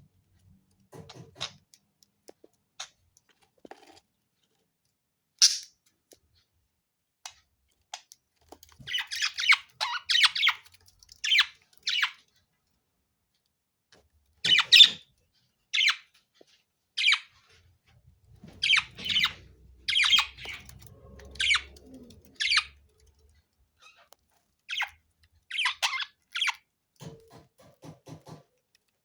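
Budgerigars giving short, sharp chirps and squawks at irregular intervals, some in quick runs of several calls, with quiet gaps between.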